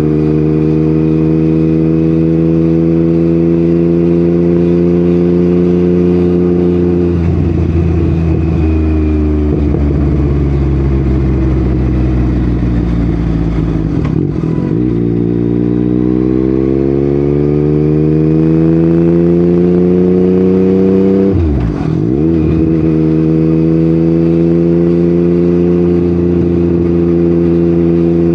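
Yamaha MT-09's three-cylinder engine through an Akrapovic exhaust, under way. It runs at a steady note, then about a quarter of the way in the revs fall and the note turns ragged as the throttle closes. Around the middle the revs climb smoothly under acceleration, drop sharply near the three-quarter mark, and settle into a steady note again.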